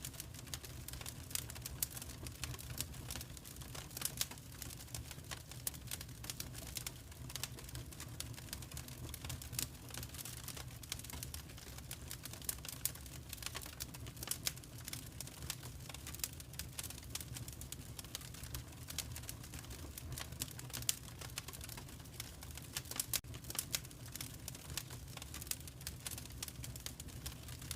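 Wood fire crackling in a fireplace: a constant scatter of small, irregular pops and snaps over a steady low rumble.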